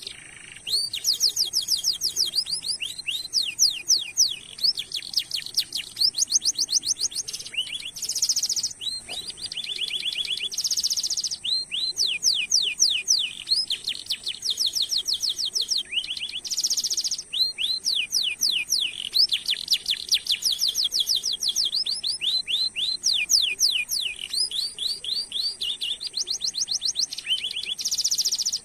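Domestic canary singing a continuous song of long rolls: fast runs of repeated sweeping chirps, broken now and then by short buzzy phrases. A faint steady high-pitched tone runs underneath.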